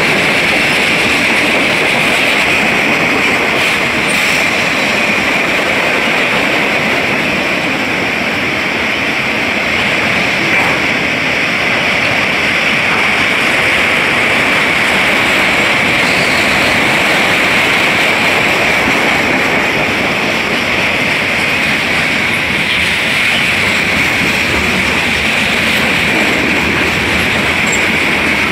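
Freight train cars rolling steadily past at close range, a continuous loud noise of steel wheels on rails with a steady high-pitched ring running through it.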